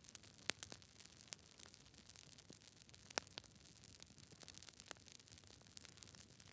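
Wood fire crackling: irregular sharp pops and snaps over a soft steady hiss, with the loudest pops about half a second in and about three seconds in.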